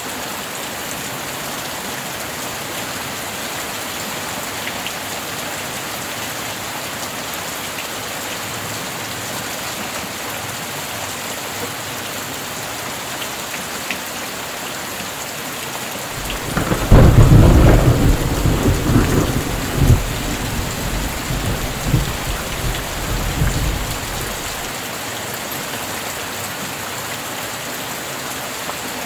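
Steady rain falling, with a clap of thunder a little past the middle that breaks loud at once, rumbles on with a few more cracks for several seconds and then dies away under the rain.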